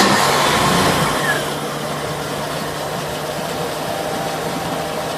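Boat's starboard inboard engine just after firing up, running faster for about a second and a half and then settling to a steady idle, over the steady hum of the engine-bay blower.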